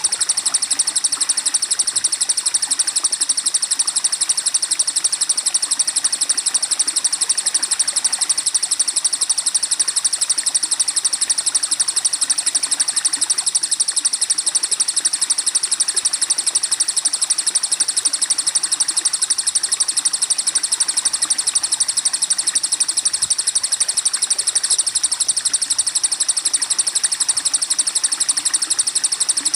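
Recorded songbirds trilling and chirping without a break, a fast, evenly repeating high-pitched chatter: a looped masteran track mixing the songs of tengkek buto, cililin, cucak cungkok and cucak jenggot.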